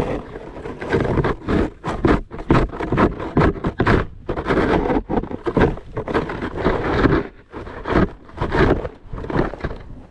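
Snow shovel scraping across a driveway in a quick, irregular run of strokes.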